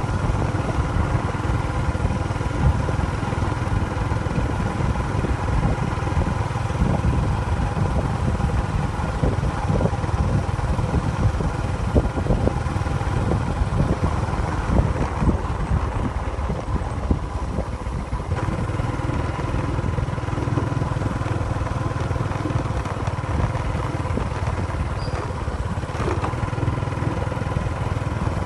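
A motor vehicle engine running steadily: a constant low rumble with a few held tones.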